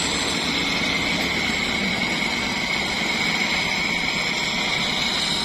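Heavy construction machinery running steadily: an engine drone with a steady high whine on top and no breaks.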